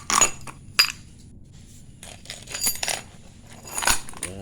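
Small metal hardware, nuts and screws, clinking and clattering as it is handled: a string of separate sharp clinks, the loudest near the end.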